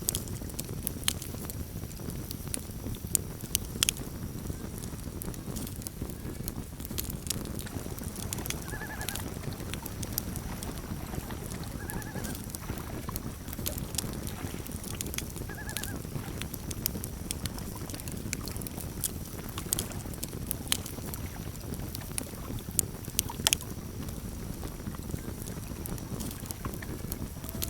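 Campfire crackling: sharp pops and snaps scattered over the steady low rumble of the burning wood. Three short loon calls sound a few seconds apart near the middle.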